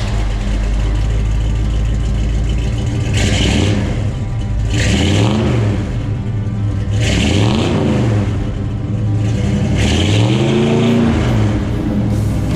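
1975 Ford Bronco engine running through newly fitted headers and dual exhaust, idling steadily and revved up and back down three times.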